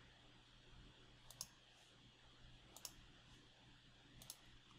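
Computer mouse clicking three times, each a quick pair of clicks, about a second and a half apart, over a faint steady room hum.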